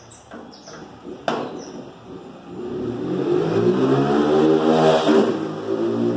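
A motor vehicle's engine accelerating, its pitch climbing for a couple of seconds, then dropping at a gear change about five seconds in and running on. A sharp click comes about a second in.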